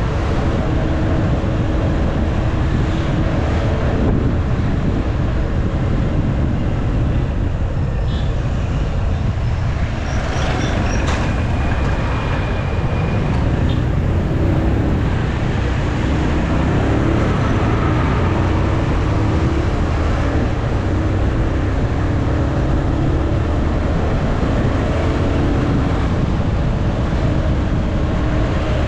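Motorcycle under way: wind rushing over the microphone, with the engine's note shifting up and down underneath.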